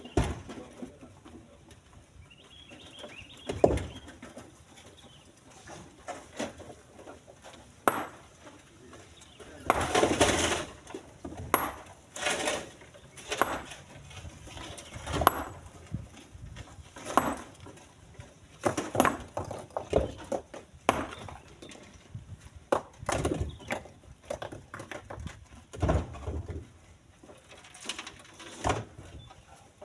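Split stones clacking and thudding as they are loaded by hand into a truck bed: irregular knocks every one to three seconds, with a denser cluster of clatter about ten seconds in.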